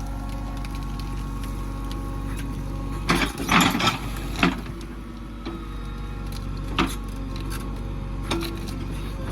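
JCB 3DX backhoe loader's diesel engine running steadily, with a loud crash and rattle about three seconds in, then single knocks about a second and a half apart and again near seven seconds.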